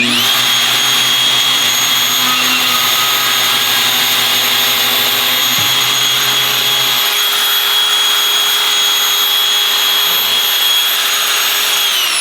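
An electric power tool's motor spins up and runs at a steady high whine for about twelve seconds, then winds down near the end.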